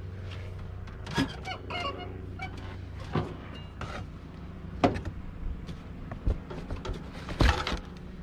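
A vehicle engine idling with a steady low hum, with a few sharp knocks and clunks of things being handled; the loudest knock comes near the end.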